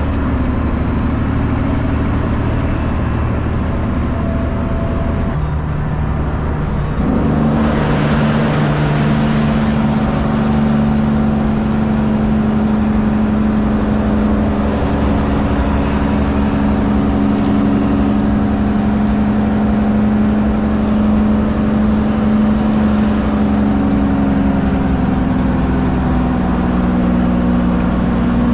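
Straight-piped 12.7-litre Detroit Diesel Series 60 inline-six in a Freightliner truck, running loud under way. About seven seconds in the exhaust gets louder and its note shifts up, then holds steady as the truck pulls.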